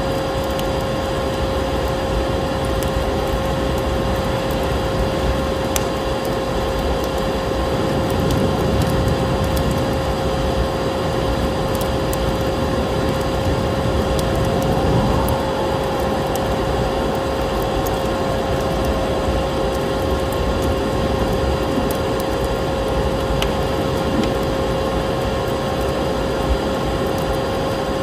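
Vacuum cleaner motor running steadily with a constant whine, mixed with the scattered sharp pops of a crackling fireplace fire over a steady rushing noise of snowstorm wind.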